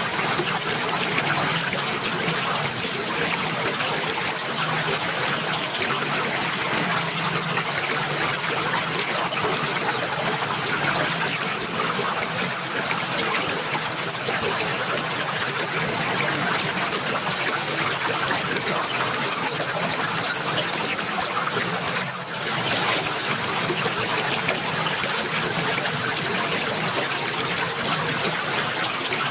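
Running water trickling and splashing steadily, a dense even rush, with a brief dip in level about three quarters of the way through.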